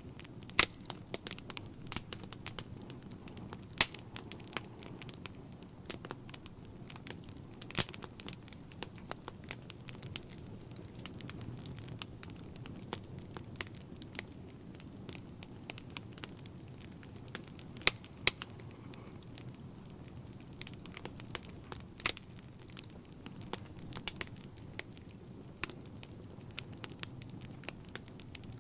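Wood fire burning in a fireplace: a steady low rumble of flames with irregular crackling and occasional sharper pops.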